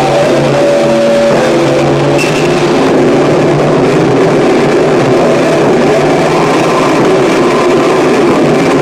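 Loud harsh noise music: a dense, distorted wall of noise. A few held droning tones sound under it in the first two seconds, then give way to a thick churning roar.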